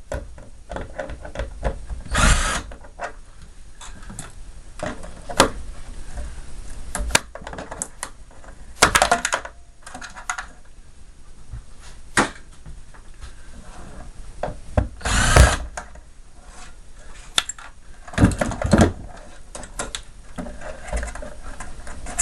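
Power drill run in several short bursts of about half a second, among sharp clicks and knocks of parts being handled.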